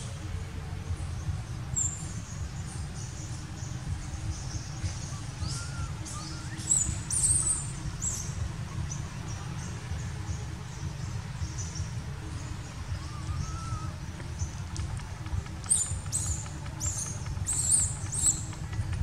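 Outdoor ambience with a steady low rumble and clusters of short, high chirps from small birds, busiest about seven seconds in and again near the end, with a couple of faint rising-and-falling calls lower down.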